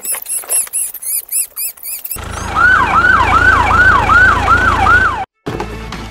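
Police siren sound effect: a wailing tone that falls in pitch again and again, about twice a second, over a low engine hum, and cuts off suddenly near the end. Before it, for about two seconds, a rapid run of very high squeaky chirps.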